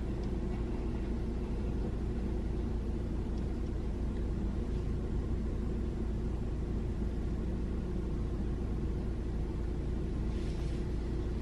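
Steady low rumble of a car heard from inside the cabin, with engine and road noise and no sudden events.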